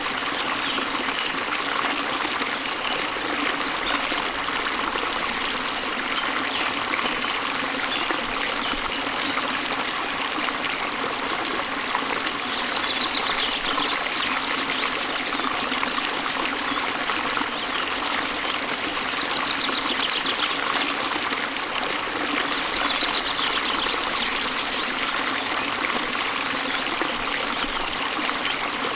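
Waterfall water running in a steady, even rush, with faint high trills of birds coming and going a few times.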